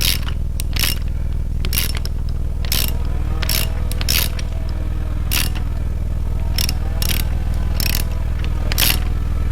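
Ratchet wrench clicking in short, irregular strokes while adjusting a rocker arm nut on a Chevy 350 small-block V8, setting the valve lash on a loose pushrod, over a steady low hum.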